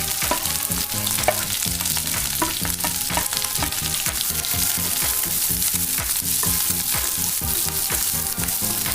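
Onions, capsicum and green chilies sizzling in hot oil in a pan, with a spatula stirring and clicking against the pan many times.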